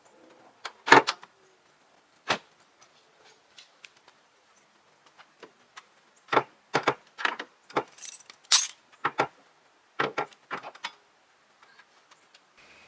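Irregular clicks and clatters of small hard objects being handled. There is a loud knock about a second in and a quick run of clicks between about six and eleven seconds.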